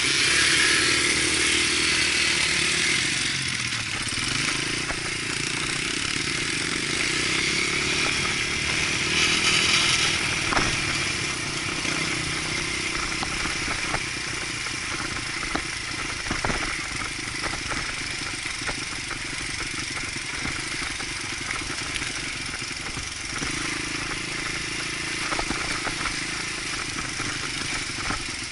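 Dirt bike engine running steadily under way, with a few sharp knocks and clatter along the way.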